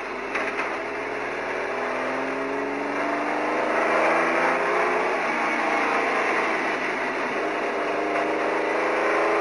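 Engine of a road-legal Porsche 917 race car, heard from inside the cabin, pulling through the gears under acceleration. The pitch climbs, drops at an upshift about five seconds in, then climbs again.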